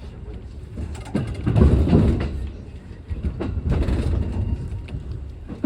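Local train running on the rails, heard from inside the carriage: a steady low rumble with wheels clacking over rail joints, swelling louder about one and a half seconds in and again near four seconds.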